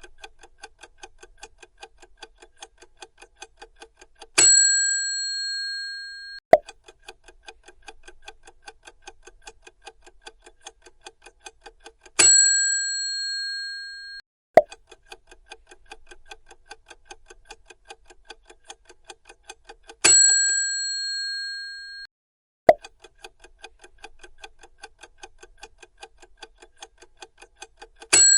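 Quiz countdown-timer sound effect: rapid, even clock ticking for about four seconds, ending in a loud bell ding that rings out for about two seconds, then a sharp click. The cycle repeats four times, one for each question's time running out.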